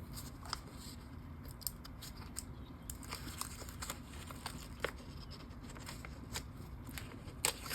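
Faint, scattered light clicks and rustles of sticker paper being handled, as a sticker is taken from its sheet and placed on a journal page.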